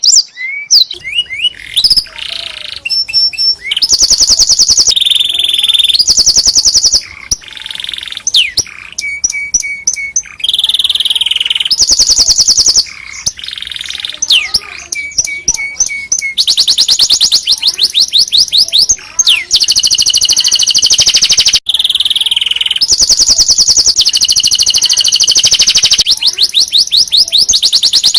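Domestic canary singing a long, loud song of rapid trills and rolls, fast repeated notes and short whistles, switching to a new phrase every second or two.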